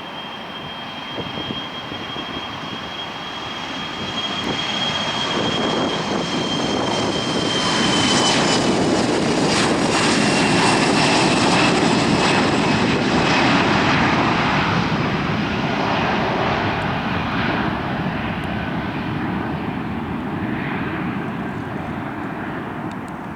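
Mitsubishi CRJ-900 regional jet's twin rear-mounted turbofans at takeoff power, going past: a high fan whine over a broad jet rush that builds to a peak about halfway through and then fades. The whine drops slightly in pitch as the jet passes.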